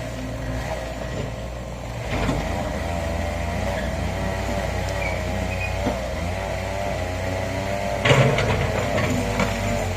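Excavator engine running steadily, its pitch wavering slightly, with a few short clanks; the loudest clank comes about eight seconds in.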